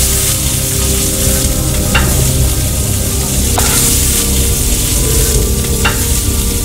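Food frying on a hot griddle: a steady, even sizzle, with a few light clicks near the start, middle and end.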